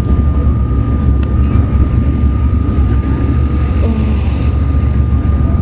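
Sprint cars running laps on the dirt track, a loud steady engine drone, with a thin steady tone held above it.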